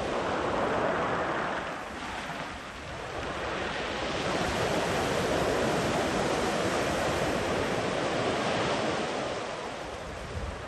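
Sea waves breaking and washing up the beach in slow surges: one swell about a second in eases off, then a longer surge builds and fades away near the end.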